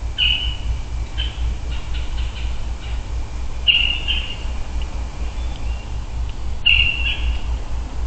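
A bird calls three times, about three seconds apart, each call a short high note, with fainter calls between. A low steady hum runs underneath.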